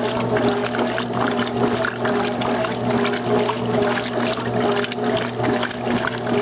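Electrolux Top 8 top-loading washing machine in its rinse cycle: water sloshing and running over a steady electric motor hum, with tones that rise and fall in a rough repeating pattern.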